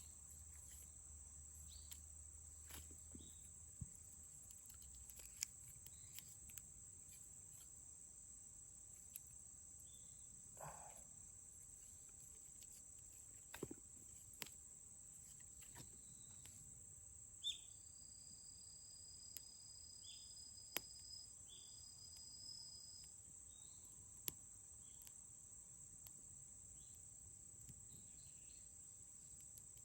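Faint ambience: a steady high-pitched insect drone with scattered small pops and clicks from a wood campfire. A thin whistling tone holds for a few seconds past the middle.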